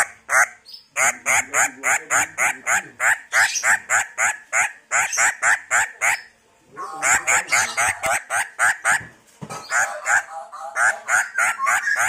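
A bird calling in runs of short, harsh repeated notes, about four a second, each dropping slightly in pitch; the runs pause briefly about six and nine seconds in.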